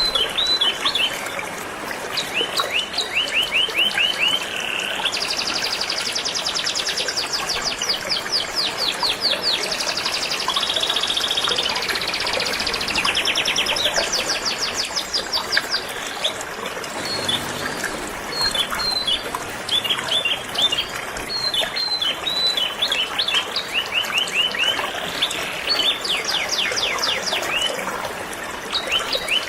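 Canary singing a continuous song of fast trills and repeated chirps over steadily flowing river water.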